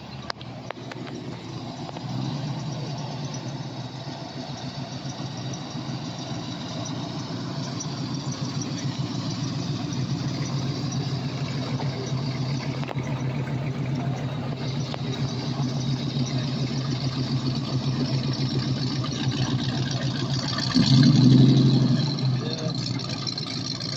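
A car engine idling steadily, coming in about two seconds in, with a brief louder rev near the end.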